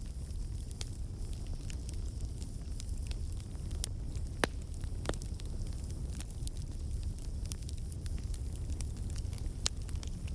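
Wood campfire burning: irregular sharp crackles and pops from the logs over a steady low rumble. The pops come from water and sap in the wood turning to steam and bursting out.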